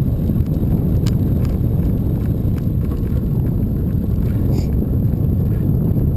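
Wind buffeting the microphone during a bicycle ride: a loud, steady low rumble, with a few faint clicks over it.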